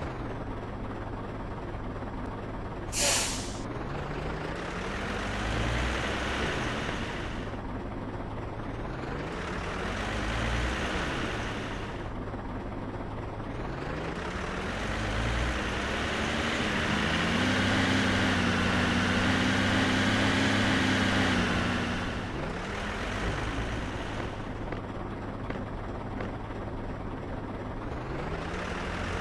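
Heavy truck engine revving up and easing off several times, with a short, sharp air-brake hiss about three seconds in.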